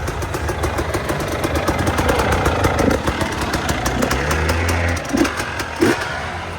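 Off-road motorcycle engine running at low revs, its pitch rising briefly about four seconds in.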